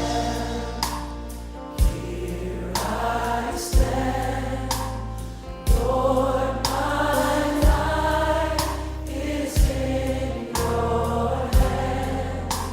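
Gospel worship music: a choir singing held notes over a band, with a sharp drum hit about every two seconds.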